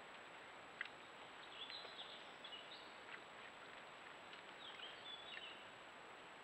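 Faint hiss of a trail camera's microphone with a thin steady high whine, over which a small bird calls twice in short chirping phrases, about a second and a half in and again near the middle. A sharp faint click sounds just under a second in, with a few softer ticks after it.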